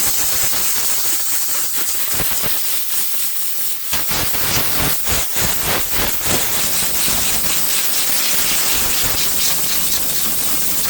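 Loud steady hiss of compressed air from a shop air gun blowing water off something soaking wet to dry it faster, fluttering in the middle as the jet moves, then cutting off sharply at the end.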